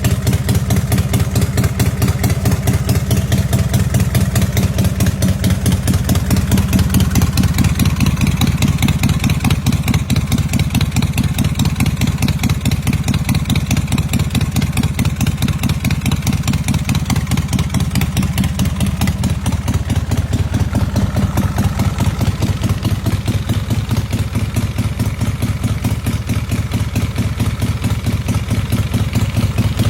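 Custom chopper's 113 cubic inch Ultima V-twin idling steadily through loud pipes, with an even, lumpy beat of exhaust pulses.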